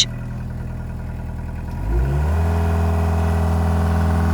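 Excavator's diesel engine idling, then speeding up about two seconds in and holding at a higher steady speed. The engine has been overheating.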